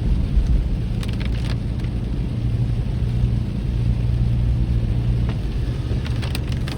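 Car interior road noise while driving in the rain: a steady low engine and tyre rumble on the wet road, with a few light clicks about a second in and again near the end.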